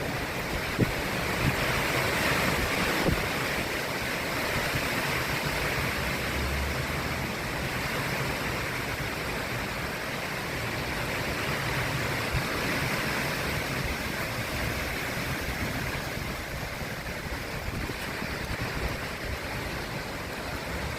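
Strong storm wind rushing through trees, a steady noise that swells and eases, with wind buffeting the microphone as a low rumble. A couple of short knocks sound in the first few seconds.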